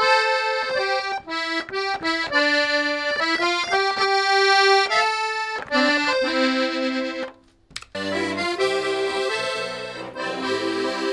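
Accordion playing a melody in full octaves, with sustained reedy notes that change in steps. A brief break comes about seven and a half seconds in, after which a fuller sound with low bass notes follows.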